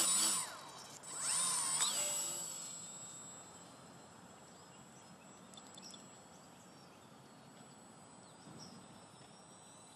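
Micro RC biplane's small electric motor and propeller whining at full throttle on takeoff, the pitch gliding up and down as it passes close, then fading as the plane flies off.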